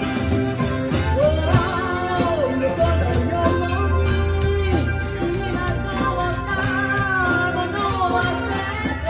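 A live band playing a song: a steady drum beat and a sustained bass line under a wavering melody line that slides between notes.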